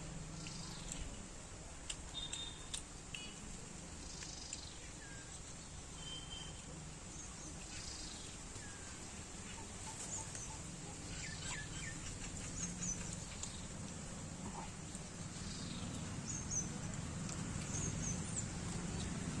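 Birds chirping: short, scattered high calls over a low steady hum that grows louder near the end.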